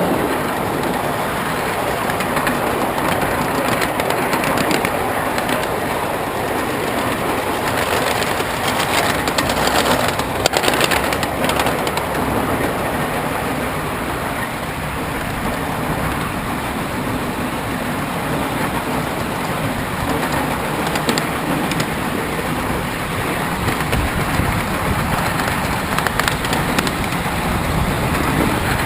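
Train running along the track, heard from aboard: a steady rumble of wheels on rail with scattered clicks and knocks.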